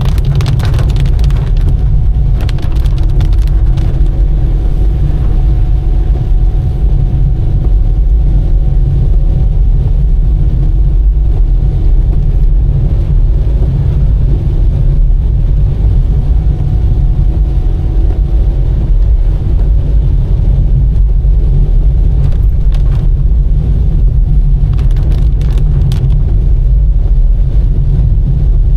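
A car being driven on a wet road: a steady, loud low rumble of engine and road noise with a faint hum, and scattered light ticks that come and go.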